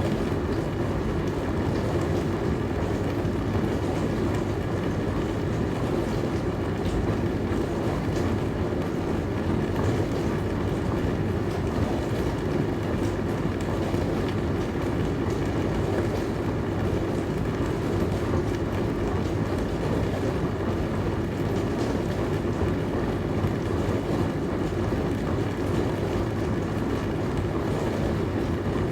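Dishwasher running: a steady, even low hum and rush with a few faint clicks, never pausing.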